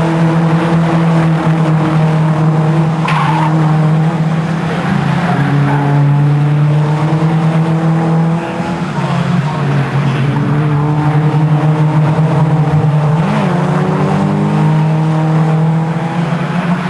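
Several racing car engines running hard at high revs, their overlapping notes holding steady and shifting up and down in pitch as the cars change gear through the laps.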